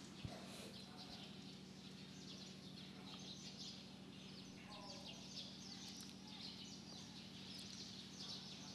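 Faint background during a pause: a steady low electrical hum with distant birds chirping, a brief call about halfway through, and one soft knock just after the start.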